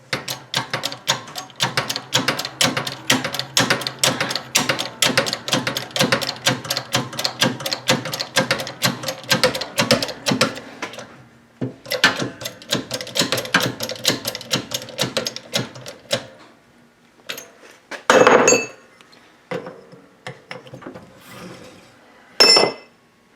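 Rapid hammer blows, about five a second, driving a tight-fitting pin or bushing into a VW front beam spindle assembly, with a brief pause partway. The blows stop after about sixteen seconds, followed by a couple of louder single knocks near the end.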